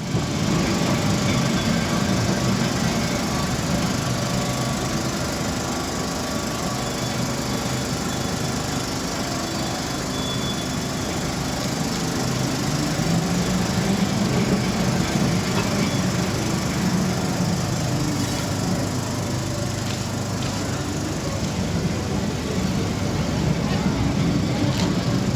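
Electric tram running: a steady rumble and hum with a few short knocks in the second half, and faint voices in the background.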